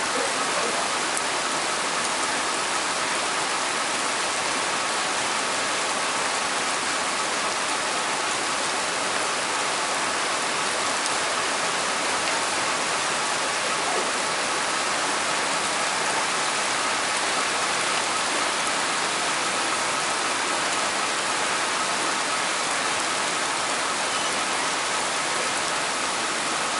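Torrential rain pouring down, a dense, steady hiss that does not let up.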